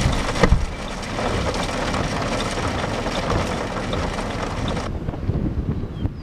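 Steady road and wind noise inside a moving vehicle, with a couple of knocks about half a second in; the hiss cuts off suddenly near the end.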